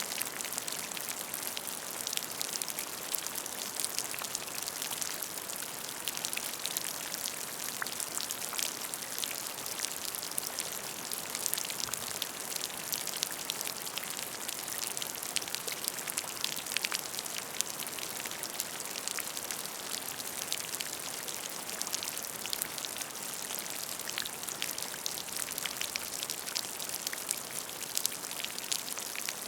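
Steady rain falling on a puddle of water, a dense patter of individual drops splashing into the water.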